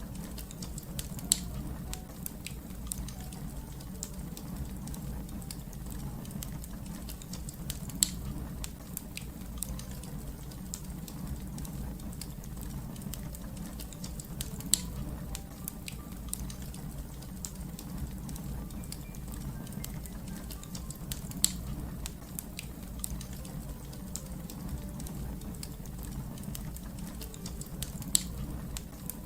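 Wood fire crackling: a steady low rumble under constant small crackles, with a louder sharp pop about every six to seven seconds, five in all.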